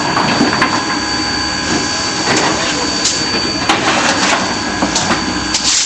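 Coal-fired steam locomotive standing with steam up: a steady hiss with a steady high whine, broken by irregular clanks and knocks.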